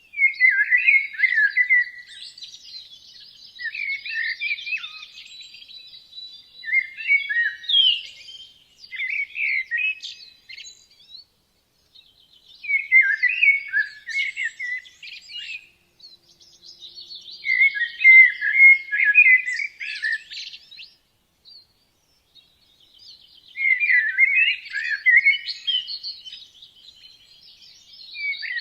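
A songbird singing short warbled phrases of about two seconds each, repeated every five seconds or so, with fainter high twittering from other birds between the phrases.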